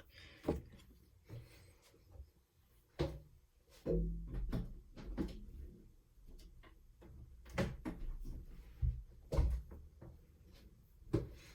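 Irregular clicks, knocks and a few heavier thumps from rummaging for Lego pieces and handling plastic parts.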